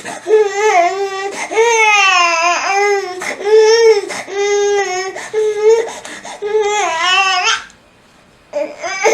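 A man crying in loud, high-pitched wailing sobs, one drawn-out wail after another, with a short break near the end.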